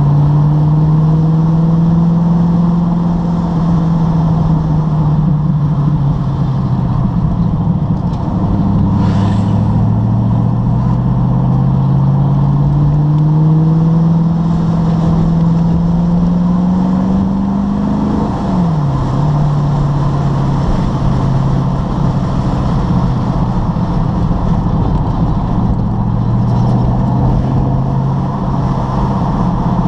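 TVR sports car engine heard from inside the car, over road and wind noise. The engine note holds, eases off, then climbs steadily in pitch under acceleration for about nine seconds. About two-thirds through it drops sharply in pitch, then settles into a steady cruise.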